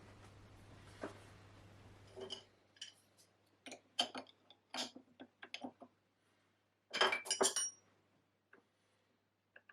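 Small metal parts and tools clinking and knocking as they are handled, a dozen or so short separate clinks with a louder clatter about seven seconds in. Before them a faint steady hiss and hum cuts off about two and a half seconds in.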